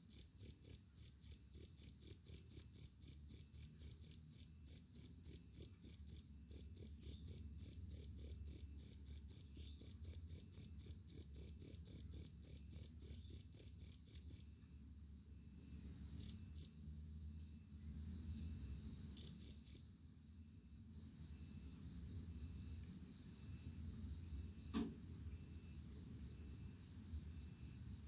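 Cricket chirping loudly in a steady, rapid run of high-pitched pulses, which becomes a denser, less evenly broken trill about halfway through.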